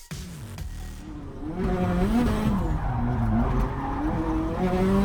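A drift car's engine revving up and down repeatedly over tyre squeal as the car slides, starting about a second in.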